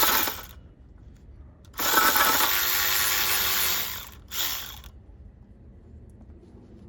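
Cordless electric ratchet running in short bursts, spinning out bolts: a brief run at the start, a longer run of about two seconds, then a short one.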